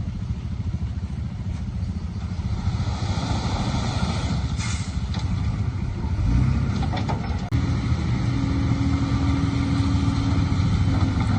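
Heavy diesel machinery engine running steadily, getting louder a little past halfway and holding a steady hum after a sudden change in the sound.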